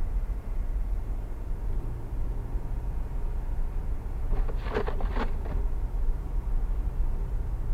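Steady low road and engine rumble of a car on a snowy highway, heard inside the cabin. A brief higher-pitched sound of about a second rises over it a little past the middle.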